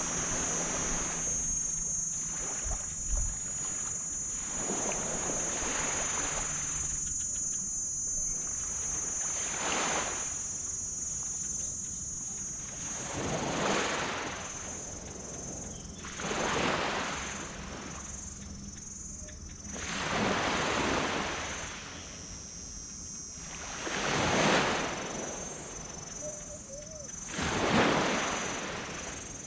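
Small tropical waves washing onto a black sand beach, each surge swelling and fading about every three to four seconds, over a steady high-pitched hiss. A low hum sits under the surf for the first few seconds.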